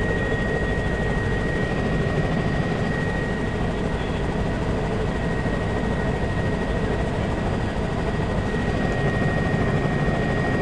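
Steady, unbroken engine and airframe noise inside the cabin of a survey aircraft in flight, with a thin steady high tone running through it.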